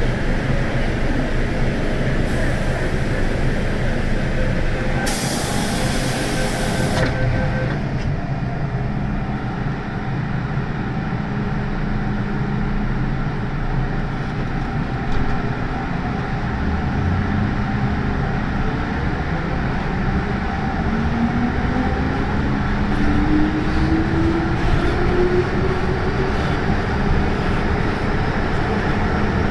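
MTR Tsuen Wan Line M-Train electric multiple unit running, with a steady rumble of wheels and running gear. A burst of hiss comes a few seconds in. In the later part a motor whine rises steadily in pitch as the train gathers speed.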